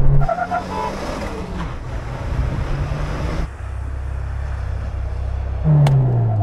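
Car engines: an engine running at speed with wind and road noise, which gives way about three and a half seconds in to a steady low engine hum; near the end an engine note rises in level and its revs fall away.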